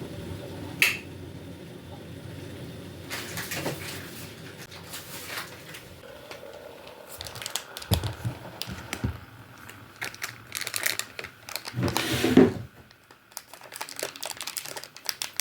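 Typing on a keyboard: irregular light key clicks and taps, with a sharper knock about a second in.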